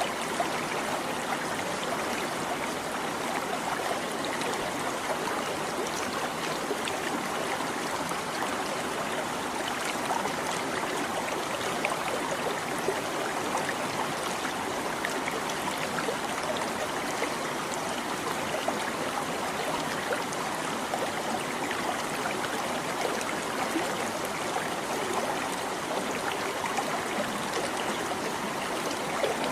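A small stream babbling over rocks, a steady rush of water with little splashes and trickles.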